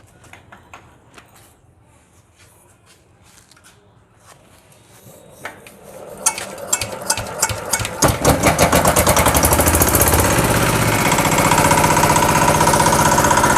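EM175 5 hp single-cylinder diesel engine with a pump set being started: after a few light clicks and knocks, it is cranked with quickening strokes, catches about eight seconds in, and runs up to a steady, loud, fast chugging run.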